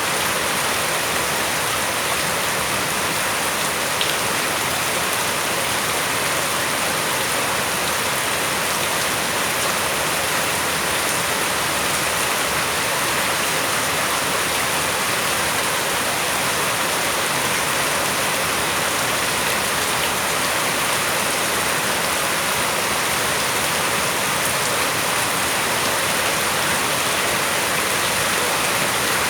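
Steady rain falling and hissing on surfaces, an even wash of sound with no let-up.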